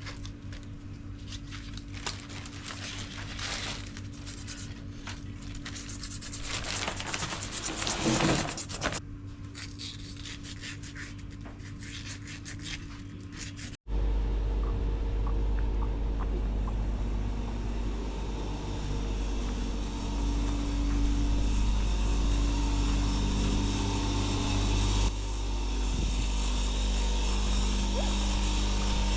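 Irregular rubbing and scraping strokes as a wedding ring is scrubbed clean. It cuts off abruptly about 14 seconds in, and a vehicle engine runs steadily for the rest.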